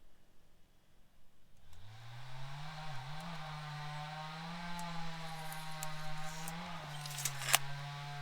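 A motor or engine starts about two seconds in, rises quickly in pitch, then runs at a steady speed with a couple of brief dips. A sharp knock comes near the end.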